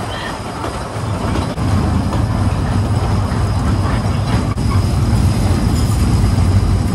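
Kurobe Gorge Railway narrow-gauge torokko train running, heard from its open-sided car: a steady rumble of the cars on the track that grows louder about two seconds in.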